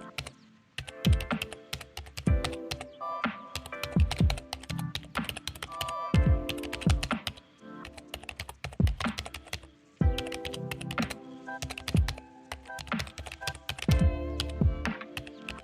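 Computer keyboard typing in quick, irregular runs of keystrokes, over background music.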